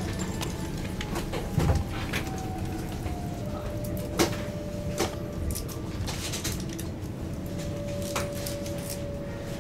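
KLIA Ekspres electric train heard from inside the carriage as it slows into the station: a steady low rumble with a thin whine that drops slightly in pitch about three and a half seconds in, and scattered clicks and knocks from the running gear, the loudest a low thump about one and a half seconds in.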